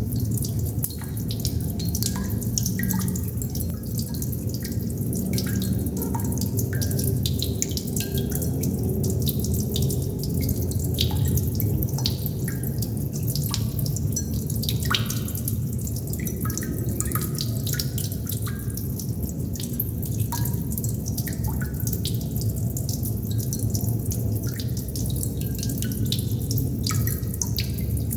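Water droplets dripping irregularly, many small plinks and pings, some with a short pitched ring, over a steady low rumbling wash of water.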